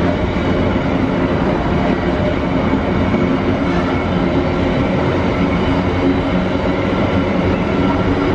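Container flat wagons of a freight train rolling past close by on a curve: a steady, even rumble of steel wheels on the rails.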